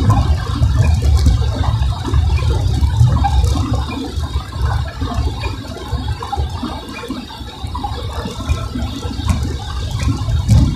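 Car driving on a wet road, heard from inside the cabin: a steady low rumble of road and engine noise under a wash of water noise from the tyres and rain.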